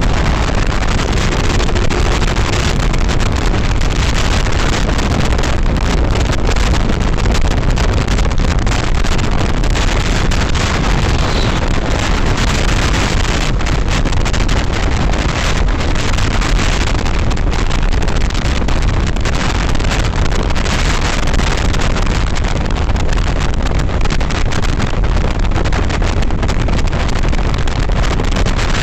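Steady wind rushing over the microphone of a motorcycle at riding speed, mixed with engine and road noise.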